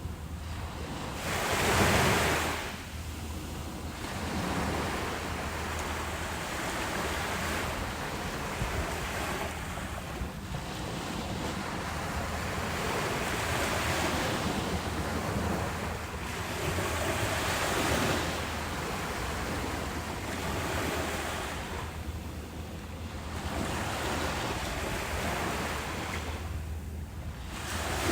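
Ocean waves breaking and washing up on a beach, in repeated swells every few seconds, the loudest about two seconds in. A steady low rumble of wind on the microphone runs underneath.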